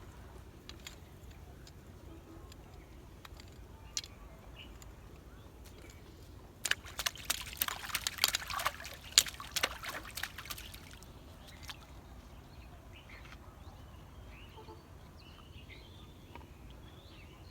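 Water splashing and sloshing for about four seconds in the middle, with a few single clicks before it. Short bird chirps come near the end.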